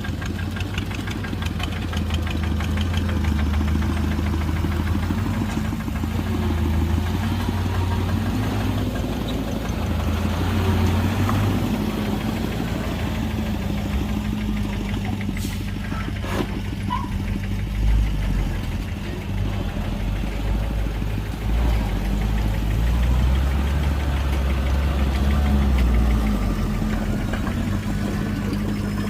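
Heavy diesel engine of earthmoving machinery running, its pitch and load rising and falling, with two sharp knocks about halfway through.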